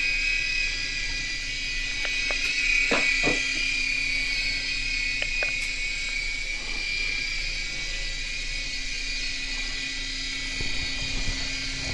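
Airhogs Sharpshooter toy coaxial helicopter in flight: its small electric motors and twin rotors give a steady high whine. A couple of faint clicks sound about three seconds in.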